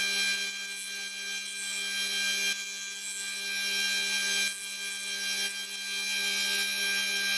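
Bench grinder running with a steady hum while a twist drill bit is ground against the wheel to reshape its relief angle. The grinding noise swells and drops several times as the bit is worked across the wheel.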